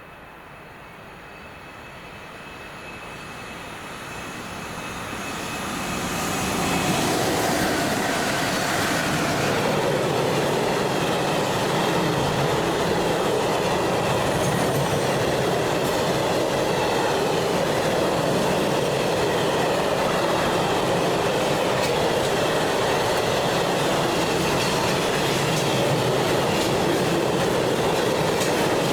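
Train approaching, growing steadily louder over about seven seconds, then passing close by with a loud, steady rolling noise of wheels on rails.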